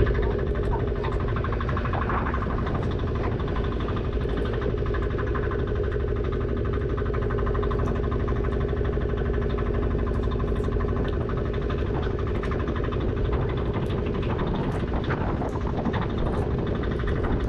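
A fishing boat's engine or net-hauling motor running steadily with an even, unchanging hum.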